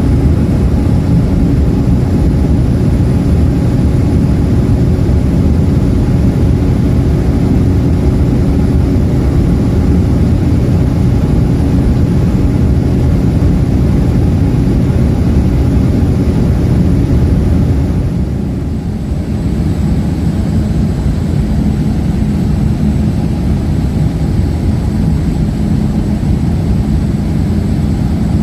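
Airliner cabin noise in flight: a loud, steady drone of the engines and airflow with several steady low hums. About two-thirds of the way through it dips briefly and the hum changes pitch, then runs steady again.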